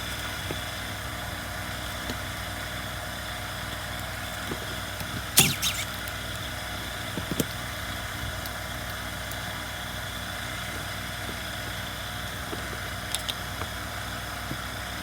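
A few metallic clinks and clicks of hand tools working on a chainsaw's engine parts during disassembly, the loudest about five seconds in, over a steady workshop hum.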